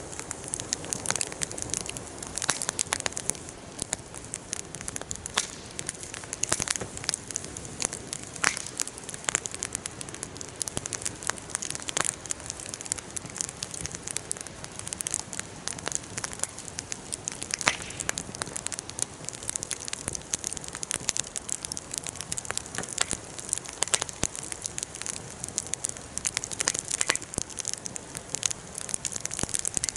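Wood fire burning, crackling steadily with many irregular sharp pops and snaps.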